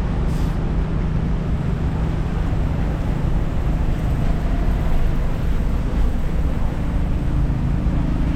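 Busy city street: a steady rumble of traffic with a low hum running under it.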